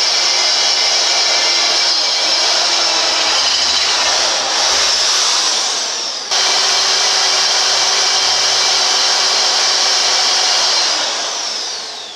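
Electric drill running at full speed, boring holes in metal plate. The motor winds down about five seconds in and starts again suddenly at about six seconds, then winds down again near the end.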